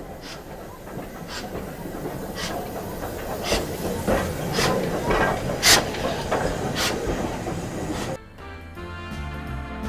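Train wheels rolling over rail joints: a steady rumble that grows louder, with a clack about once a second. Music comes in near the end.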